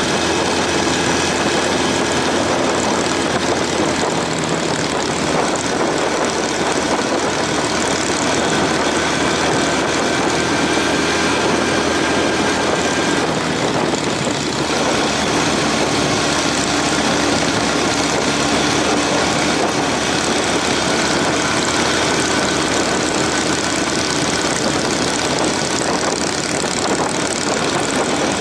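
Motorcycle riding at speed: steady rushing wind noise over the engine's running note, with a slight change in engine pitch about halfway through.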